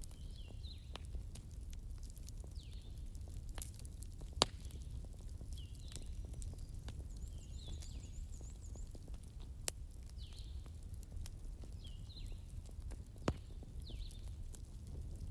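Wood bonfire burning with a low steady rumble and light crackle, broken by three sharp pops spread through. A bird calls over it again and again, a short falling note about every second and a half, with a brief high trill in the middle.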